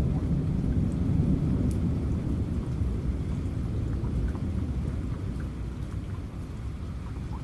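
Rain falling steadily with a low thunder rumble that is strongest in the first few seconds and slowly fades, and scattered drop ticks on top.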